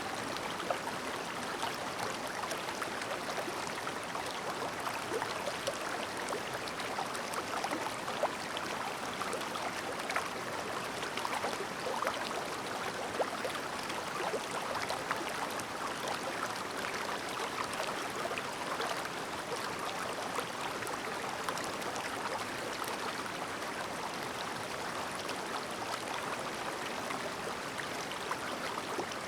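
Shallow clear stream babbling over stones, a steady rush of water with small splashes and trickles throughout.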